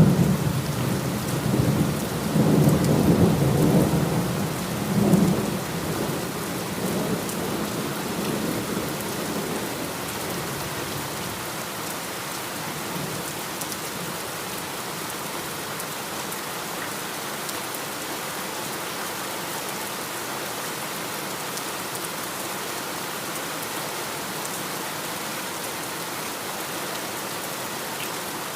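Thunderstorm: a thunderclap right at the start, rolling on in low rumbles for about six seconds, then steady heavy rain.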